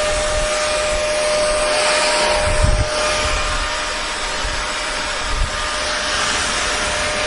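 Electric hair dryer running steadily: an even rush of blown air with a constant whine from its motor, and a few brief low bumps.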